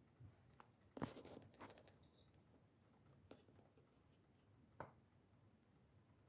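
Small wood fire crackling faintly, with a few scattered pops and snaps; the loudest comes about a second in, with a brief run of crackle after it.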